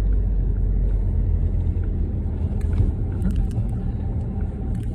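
Steady low rumble of a moving car heard from inside the cabin, mixed with storm wind buffeting the body. Scattered faint ticks from about halfway through are wind-blown sand striking the car.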